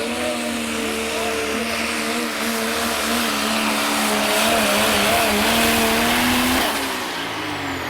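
Diesel pickup truck engine at full throttle pulling a sled, held at a steady high pitch over a loud rushing of turbo and exhaust. Near the end the engine note drops sharply as the throttle comes off and the pull ends.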